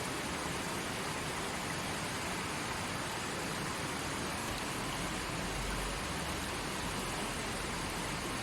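Creek water flowing steadily over rocks, a continuous even rushing.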